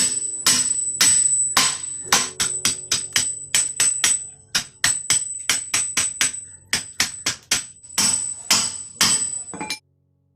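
Hammer blows driving nails into wood: a steady run of sharp strikes, about two a second at first, quickening to about four a second in the middle, then slowing. They stop abruptly near the end. Soft background music plays underneath.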